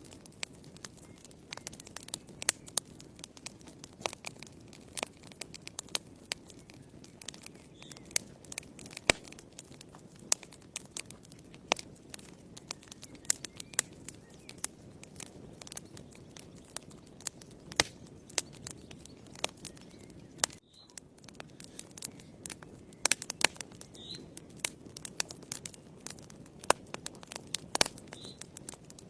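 Wood fire burning in a fireplace: frequent, irregular sharp crackles and pops over a low steady rustle of the flames.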